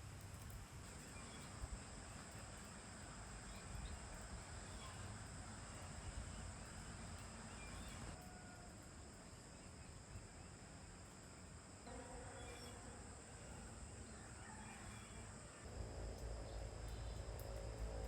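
Insects, crickets or similar, trilling in a steady high-pitched drone over a faint low rumble.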